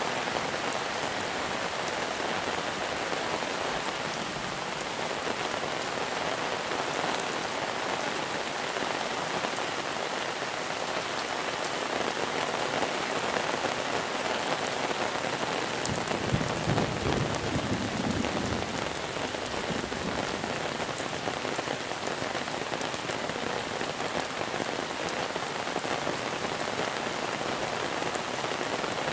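Steady monsoon rain falling on surfaces, an even hiss. Just past the middle, a low rumble swells for a few seconds and fades.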